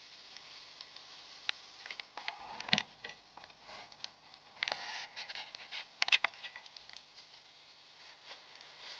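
Scattered faint rustling with irregular sharp clicks and snaps, the loudest a few seconds in and again about two-thirds through.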